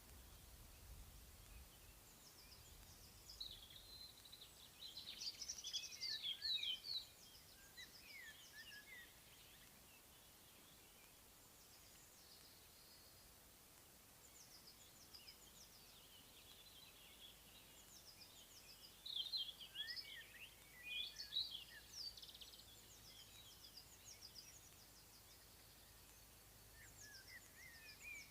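Wild songbirds singing in spring countryside: two louder bursts of quick, chirping song, one about five seconds in and another around twenty seconds in, with fainter distant calls between them.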